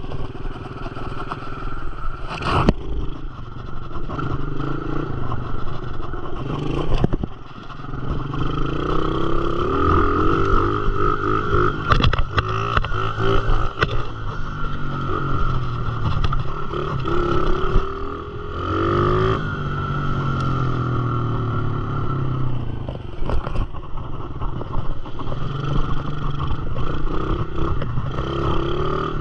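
Dirt bike engine running and being revved as it is ridden, its pitch rising and falling with the throttle, with occasional sharp knocks and clatter.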